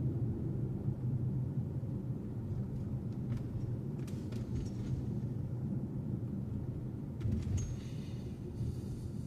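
Steady low rumble of a car being driven, the road and engine noise, with a few faint clicks and ticks over it.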